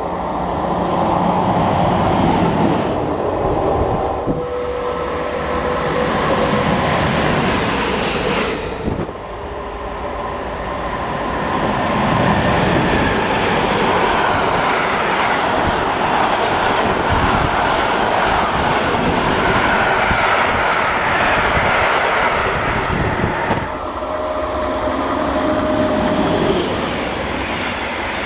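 A train running past close by on the main line: continuous loud rumble and rush of wheels on rail, with a brief dip about nine seconds in and a change in the noise a few seconds before the end.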